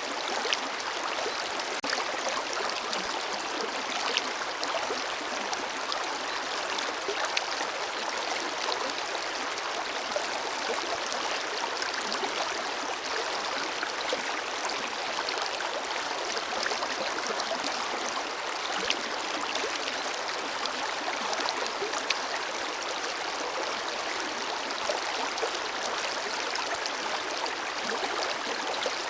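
Forest river flowing steadily, a constant rush of water with small splashes and trickles through it.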